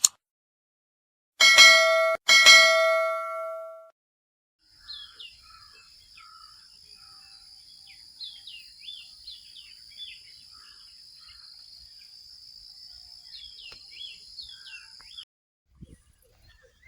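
A bell struck twice about a second apart, each strike ringing out and fading. Then birds chirping over a steady high-pitched drone, which cuts off suddenly near the end.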